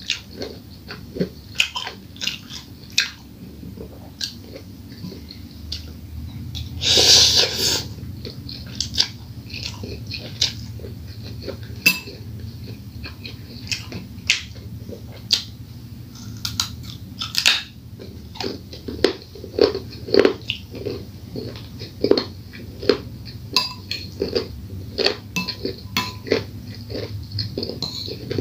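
Close-up eating sounds of fried instant noodles: wet chewing and mouth smacks, with a metal spoon and fork clicking and scraping against the bowl. One louder noisy sound lasting about a second comes roughly seven seconds in.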